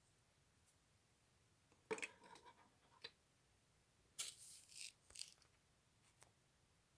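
LEGO plastic pieces being handled: short scraping and clicking in two brief bursts, about two seconds in and again from about four seconds, with a faint tick after.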